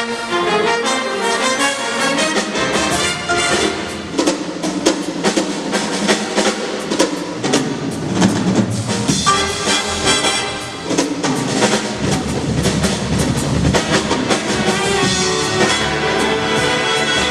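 Big band playing: the brass section of trumpets and trombones with the drum kit driving the rhythm.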